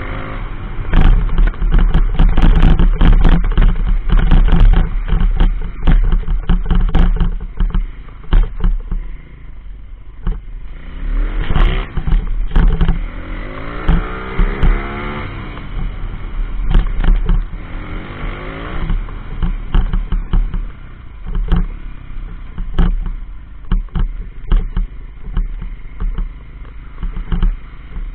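140cc single-cylinder pit bike engine running during a ride, its pitch rising and falling as it is revved, most clearly around the middle. A heavy low rumble and many sharp knocks and clatters run through it.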